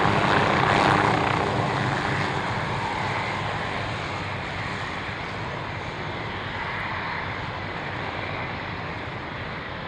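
Fixed-wing aircraft engines during a departure, loudest about a second in and then fading steadily as the aircraft moves away.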